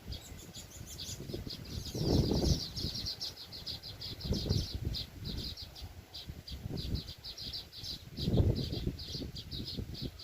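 Weaver birds chattering continuously, a fast run of short high chirps. Low rumbles surge in about two seconds in, again around four and a half seconds, and loudest near eight and a half seconds.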